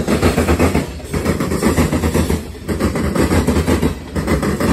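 Freight train of covered hopper cars rolling past below, steel wheels clattering and rumbling on the rails. The sound dips briefly about every second and a half as the cars go by.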